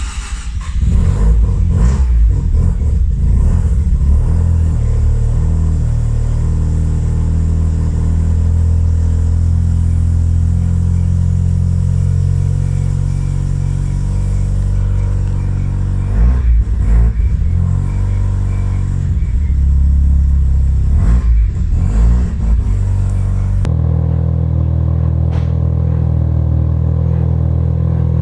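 Single-turbo Mazda RX-7's twin-rotor rotary engine running on its Haltech Elite 1500 engine management, not yet tuned, with a couple of short revs in the middle. The sound changes abruptly near the end, as if cut to another take of the engine running.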